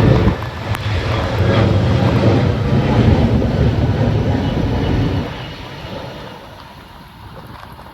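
Jet airliner engines passing close by with a loud, low rumble that drops away about five seconds in and fades.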